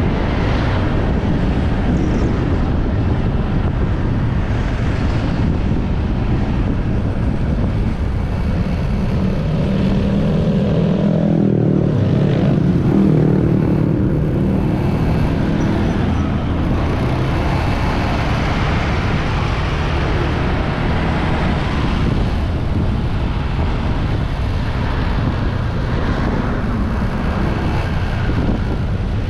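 Wind rushing over the microphone of a moving motorbike, mixed with engine and road noise. About ten seconds in, a pitched engine drone swells for a few seconds, then fades back into the steady rush.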